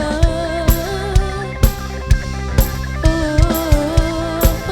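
Live band playing an instrumental passage between sung lines: a drum kit keeps a steady beat of about two hits a second under a sustained melodic lead line.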